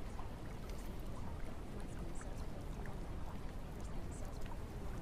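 Steady rain falling, a continuous hiss and low rumble with scattered sharp drips and patters through it.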